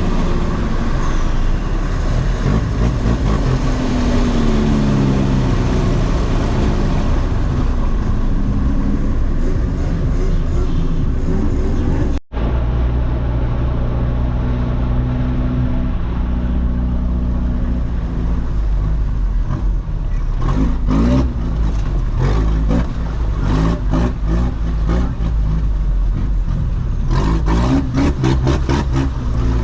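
A vehicle engine running loudly, its pitch rising and falling as it revs. It cuts off abruptly about twelve seconds in and comes back steadier, and from about twenty seconds on a rapid series of knocks and rattles sounds over it.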